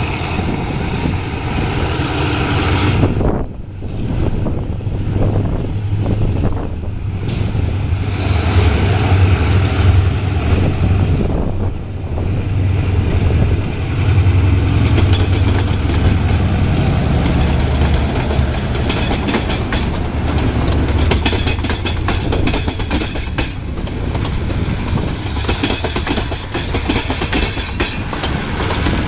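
Train running along the track: a steady low drone throughout, with dense rapid clicking of wheels over rail joints through the second half.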